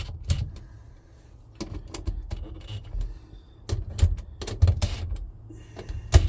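Irregular sharp clicks and knocks, with dull low thumps among them: hand tools and hardware being handled while a shifter boot is fitted.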